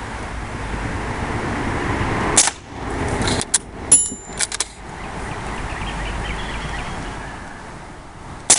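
Steady rushing noise of passing road traffic, swelling twice, broken by sharp cracks and a cluster of metallic clicks with a brief clink, typical of a lever-action CO2 BB rifle being fired and its lever cycled to eject a shell.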